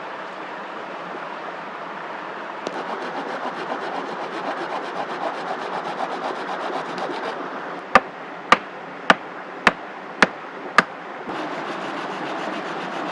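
Wood being rasped or sawn by hand for a few seconds, then six sharp, evenly spaced knocks on wood, about two a second, over a steady rushing background.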